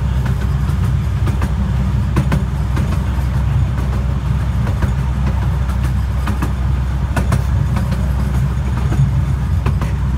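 12-inch gauge miniature railway carriage running along the track: a steady low rumble of wheels on rail, with irregular clicks and knocks from the wheels passing over rail joints.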